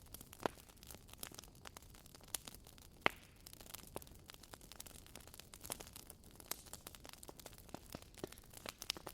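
Wood fire crackling: irregular sharp pops and snaps over a faint hiss, with louder pops about half a second and three seconds in.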